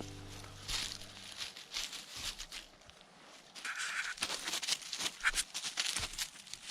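Background music fading out in the first second or so, then irregular footsteps and scuffing on the ground during a dog walk.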